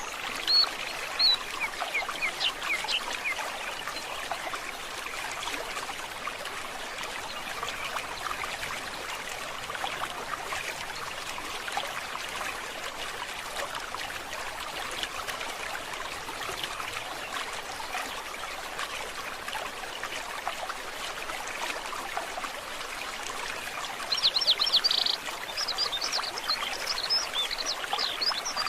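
A forest stream babbling steadily. Birds chirp briefly in the first few seconds and again in a busier run near the end.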